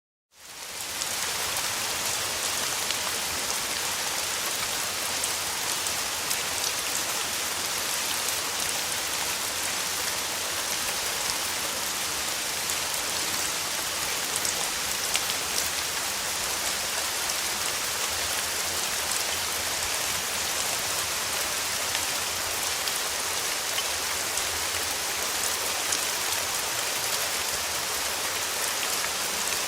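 Steady rain falling on a surface: an even hiss with fine scattered drop ticks. It fades up from silence in the first second.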